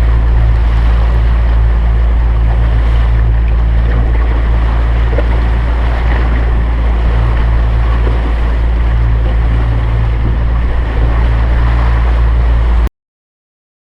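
Boat's outboard motor running steadily at trolling speed, a constant low hum under heavy wind buffeting the microphone and water rushing past the hull. The sound cuts off suddenly near the end.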